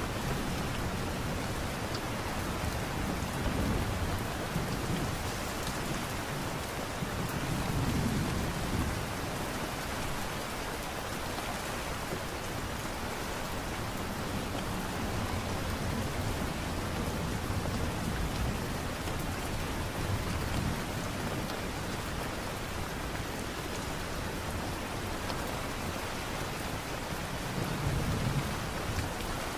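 Steady light rain falling, an even hiss, with low rumbles swelling up briefly about eight seconds in and again near the end.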